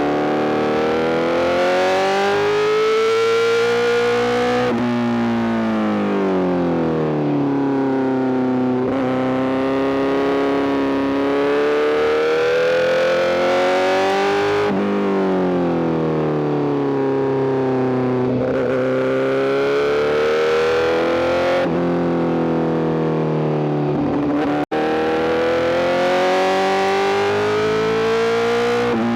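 Honda CBR1000RR-R SP inline-four engine through a full Arrow GP exhaust, ridden hard. The pitch climbs under acceleration several times, and each climb ends in a sudden drop or a falling roll-off before the next pull. The sound breaks off very briefly once, near the end.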